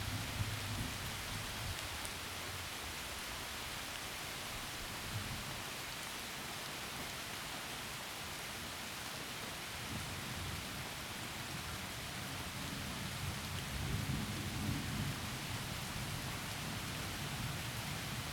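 Heavy rain falling through forest trees as a steady hiss, under rolling thunder. A low rumble fades out in the first couple of seconds, and another builds and swells about two-thirds of the way through.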